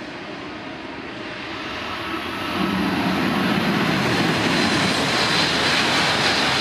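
Shinkansen train running into the station past the platform, the rumble and hiss of its wheels and running gear swelling about two and a half seconds in as it draws level and staying loud.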